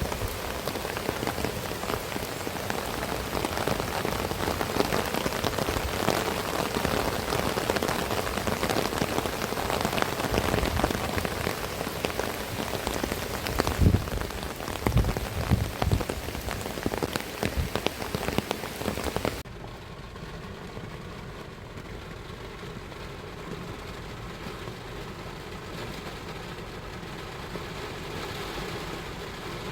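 Heavy rain falling, a dense hiss of many fine drop ticks, with a few low thumps around the middle. About two-thirds in, it cuts abruptly to a quieter, steady rain hiss.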